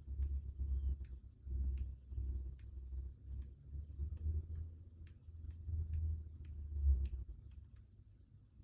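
Scattered light clicks and ticks at an irregular pace, about one or two a second, over an uneven low rumble from desk work.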